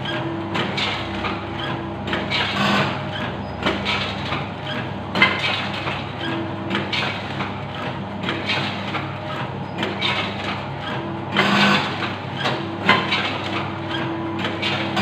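Snack packaging machine running with a continuous mechanical clatter over a steady hum, with sharp knocks about five seconds in and again near the end.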